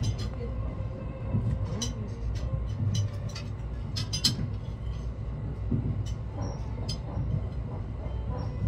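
Cassiopeia sleeper train running, heard inside the carriage: a steady low rumble, with a few short sharp clinks of cutlery on a plate.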